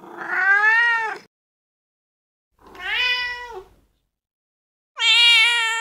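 A domestic cat meowing three times, each meow about a second long with short silences between. The first two rise and then fall in pitch, and the third is higher and steadier and runs on past the end.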